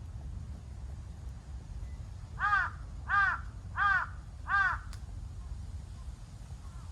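A crow cawing four times in an even series, each caw a short, arched, harsh call.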